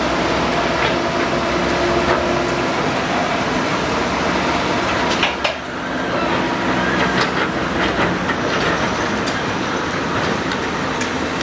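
Excavator at work: its diesel engine runs steadily, mixed with metal clanking and knocking, with a few sharp knocks about five seconds in.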